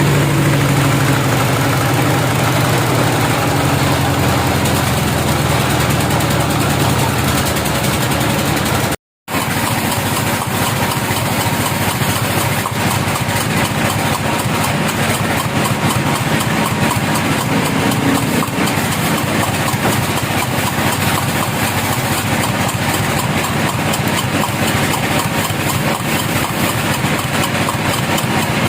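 Engine running steadily, with the sound cutting out for a moment about nine seconds in.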